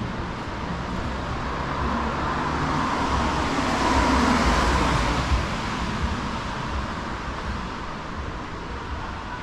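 A car passing on a wet street: the tyre hiss swells to its loudest about four seconds in and then fades away, over a low engine rumble.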